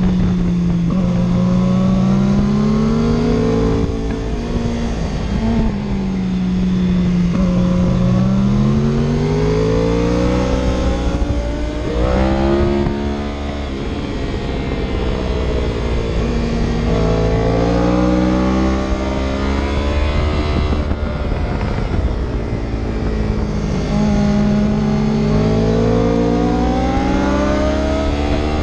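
Vehicle engine running hard, its revs climbing and falling several times with a few sudden drops, over a steady low rumble of road and wind noise.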